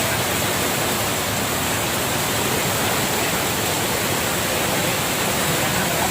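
Steady, even hiss of a rainstorm with strong wind.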